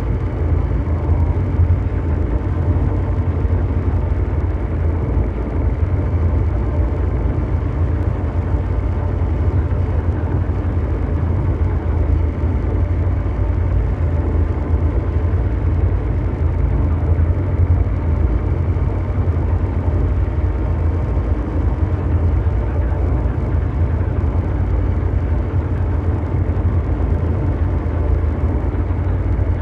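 Continuous produced mechanical drone: a deep, steady engine-like rumble under a brown-noise rush, with no change in level or pitch.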